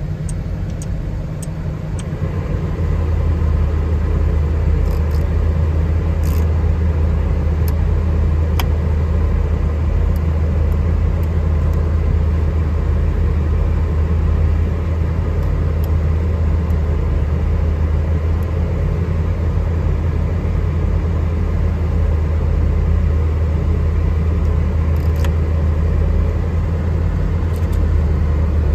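Car engine idling, heard from inside the cabin. About two seconds in, the heater blower fan is switched on and adds a steady low hum that then holds. A few faint clicks sound along the way.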